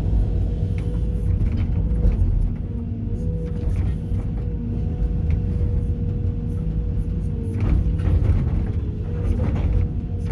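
Sumitomo SH210 hydraulic excavator running under load: a steady diesel rumble with a held hydraulic whine. Scattered knocks and a burst of clattering come about three-quarters of the way in, as concrete debris is handled.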